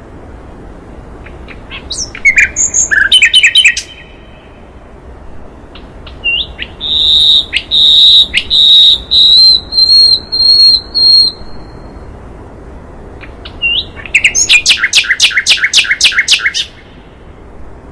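Recorded songs of a sikatan londo and a white-rumped shama (murai batu), the kind of track played to train caged songbirds. Three loud phrases come in turn: a quick jumble of high notes about two seconds in, a run of clear whistled notes in the middle, and a fast, even trill of repeated notes near the end.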